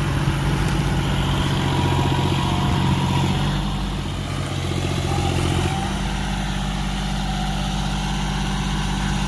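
Diesel tractor engine running steadily while the tractor is stuck in mud. About six seconds in, its note settles to a different steady pitch.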